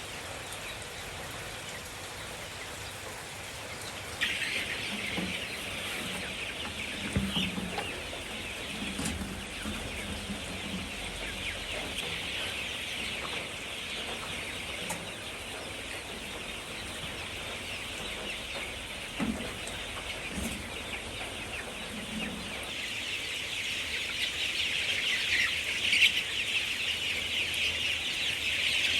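Chickens clucking in short low calls, over a dense chorus of high chirping that starts about four seconds in and grows louder near the end.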